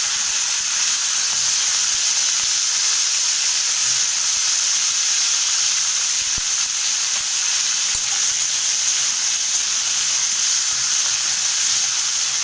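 Cut yard-long beans (barbati) frying in hot oil in an aluminium kadhai: a loud, steady sizzling hiss as the raw beans hit the oil and give off steam.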